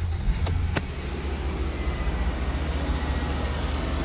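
Mercedes-Benz S550's V8 engine idling steadily, just after being started, with two light clicks about half a second in.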